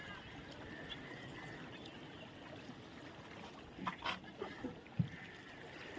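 Faint water trickling and lapping, with a few short, faint high chirps and a soft knock about five seconds in.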